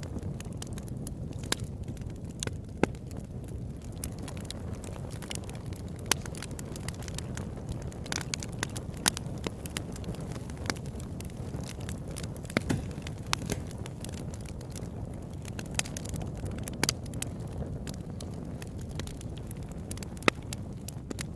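Campfire burning, with a steady low rumble under irregular sharp crackles and pops of burning wood; a few louder snaps stand out here and there.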